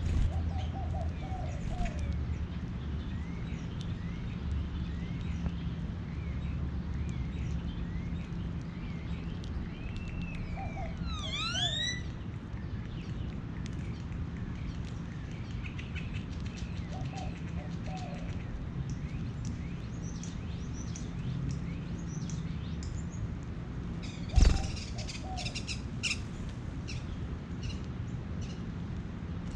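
Wild songbirds chirping and calling over a steady low hum, with a quick run of rising whistled notes about a third of the way in. A single loud thump sounds later on.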